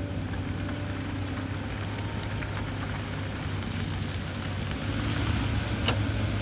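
Hyundai excavator's diesel engine running with a steady hum, over scattered crackling and a sharper knock about six seconds in.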